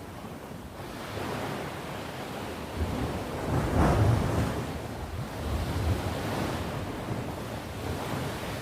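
Sea waves washing onto the shore, a surge building to its peak about four seconds in and then receding, with a smaller wave following.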